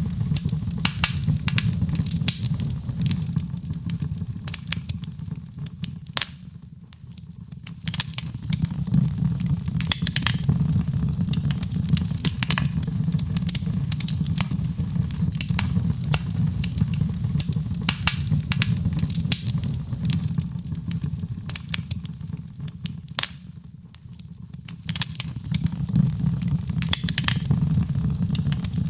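Fireplace wood fire crackling, with dense sharp pops and snaps over a steady low rumble. The crackling eases off briefly twice.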